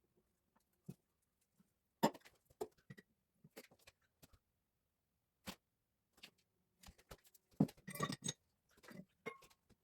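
Scattered clicks, knocks and light metallic clinks of tools and pipe parts being handled during plumbing work, with a busier burst of clatter about eight seconds in.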